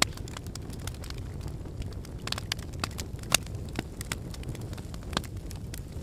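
Wood fire burning in a fireplace: a steady low rush of flame with irregular sharp crackles and pops from the burning logs, a few louder pops standing out.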